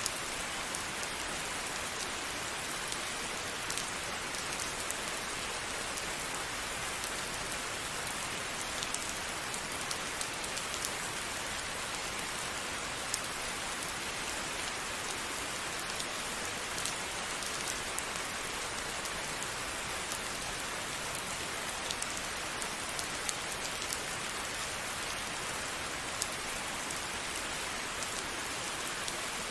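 Steady rain falling, an even hiss with many separate drops ticking on a surface throughout.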